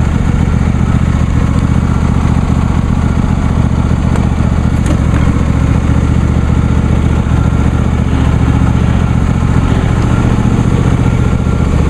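John Deere D130 lawn tractor engine running at a steady pitch while the tractor is driven, mower blades disengaged.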